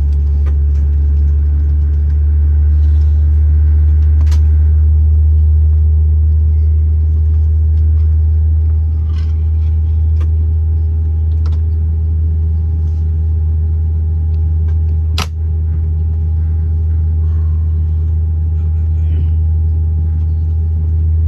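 Steady low rumble of an Airbus A321neo cabin on the ground before takeoff, from the idling Pratt & Whitney geared turbofan engines and the air conditioning, with a constant hum tone over it. A few faint ticks and one sharp click about 15 seconds in.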